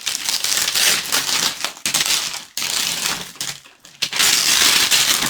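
Wrapping paper being crinkled and torn off a gift by hand, a dense crackling rustle in several stretches with short pauses between.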